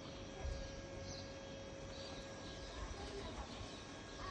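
Faint birds chirping here and there over a steady low hum.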